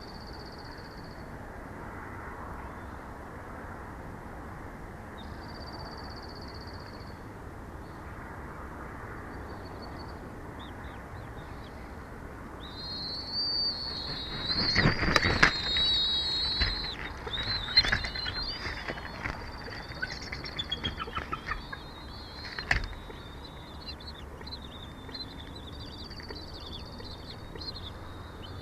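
Wind on a bald eagle nest-camera microphone, with a burst of wingbeats and knocks from about halfway through, mixed with high, wavering bird calls.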